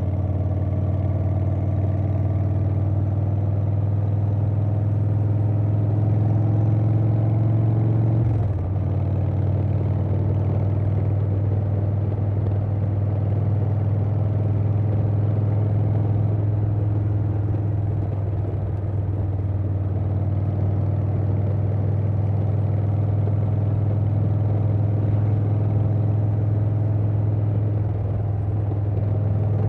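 2020 Harley-Davidson Softail Standard's V-twin running at road speed through a Vance & Hines Big Radius 2-into-2 exhaust. The engine note climbs slightly for about eight seconds, dips briefly, then holds steady.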